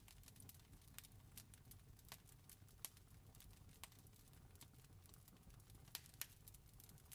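Campfire crackling: irregular small snaps and pops over a low steady rumble, with a few sharper pops about three seconds in and around six seconds.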